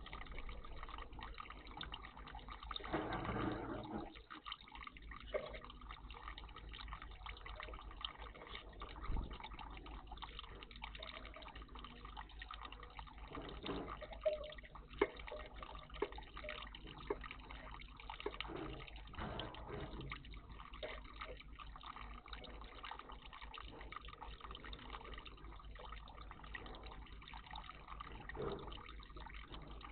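Water at a garden bird bath: a steady trickle with scattered drips and small splashes, and a louder stretch of splashing about three seconds in.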